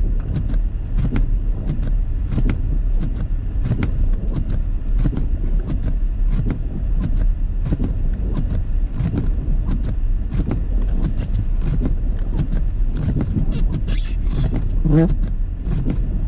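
Car driving on snowy roads, heard from inside the cabin: a steady low rumble of engine and tyres with many light, irregular knocks and ticks, two or three a second. A short pitched sound comes about fifteen seconds in.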